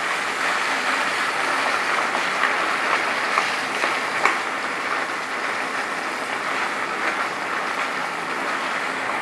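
Boiled taro leaves frying in hot oil in a non-stick kadai: a steady sizzle and crackle, with a few light scrapes and taps of a spatula as they are stirred.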